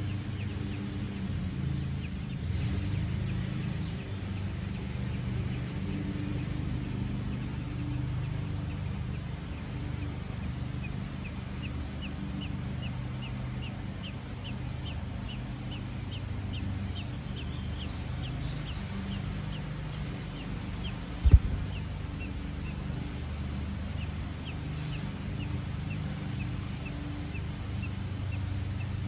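A bird gives a long run of short, high chirps, two or three a second, over a steady low hum. A single sharp thump comes about two-thirds of the way through.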